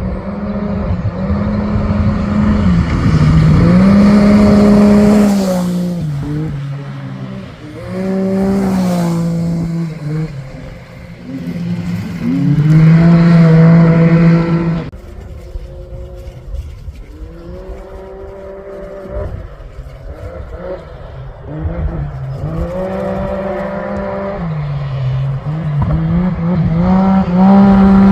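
Rally-raid competition vehicles driving hard on a special stage, engines revving and stepping through gear changes. There are loud pass-bys about four seconds in and again about thirteen seconds in, and another vehicle builds up near the end.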